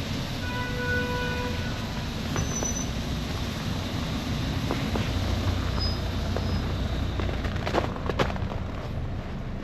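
City street ambience in a snowstorm: a steady low rumble of traffic, with a pitched horn-like tone lasting about a second near the start and a few sharp clicks near the end.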